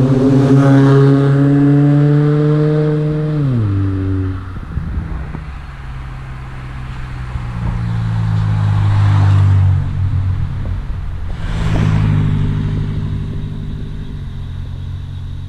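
Chevy Cobalt 2.2-litre four-cylinder through ZZP long-tube headers and a full 3-inch catless exhaust, accelerating. The note rises, drops sharply about three and a half seconds in as the revs fall, then climbs and eases off twice more.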